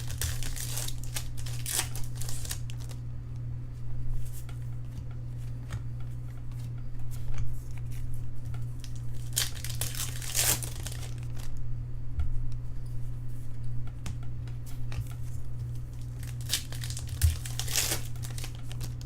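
Foil wrappers of 2013 Bowman Draft baseball card packs being torn open and crinkled, in bursts of rustling at the start, about halfway and near the end, over a steady low electrical hum.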